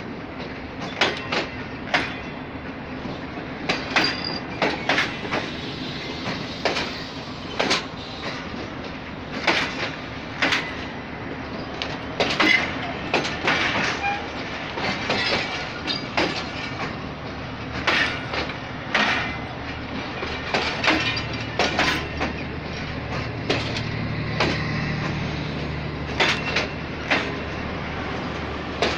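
Pakistan Railways Tezgam Express passenger coaches rolling past in reverse, their wheels clicking and knocking irregularly over the rail joints above a steady hum. A deeper hum grows louder near the end.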